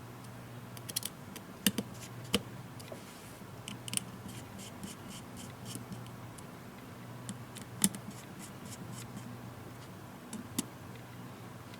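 Scattered small clicks and taps of hand tools and small parts against a tablet's plastic and metal internals, with a few sharper clicks; a faint steady low hum underneath.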